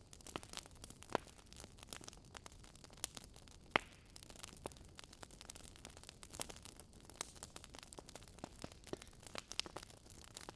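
Campfire crackling: burning wood giving irregular sharp pops and snaps over a faint hiss, the loudest snap a little under four seconds in.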